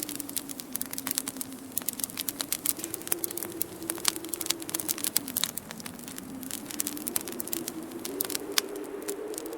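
Wood fire in a fireplace crackling, with dense irregular sharp pops. Under it, a low howl of winter wind slowly rises and falls in pitch.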